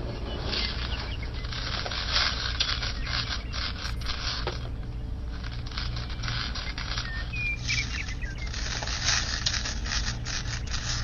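Light scraping and rustling as a small rubber toothed belt is handled and slipped over a plastic pulley and gear by hand, with a few bird chirps in the background about two-thirds of the way through.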